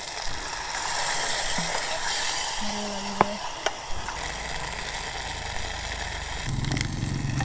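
Onions sizzling in oil in a camping pot on a portable gas stove, strongest just after water is poured in, while a wooden spatula stirs and scrapes with a couple of sharp knocks on the pot a little past the middle. A low engine hum comes in near the end.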